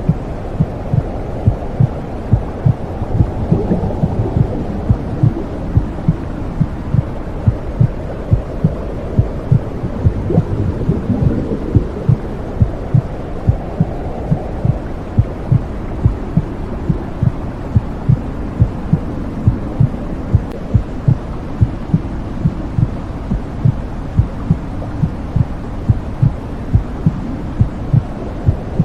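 Womb sound for soothing a baby: a steady, even heartbeat thumping over a muffled low whooshing noise.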